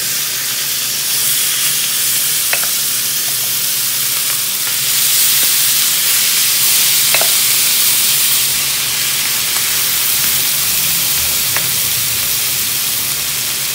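Tuna sisig sizzling in melted butter on a hot metal sizzling plate, a loud steady hiss as the cold mixture hits the pan. A wooden spatula spreading it gives three light clicks against the plate.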